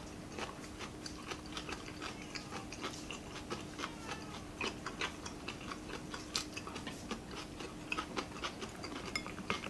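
Close-miked eating sounds from people eating with their hands: irregular soft chewing and lip-smacking clicks, over a faint steady hum.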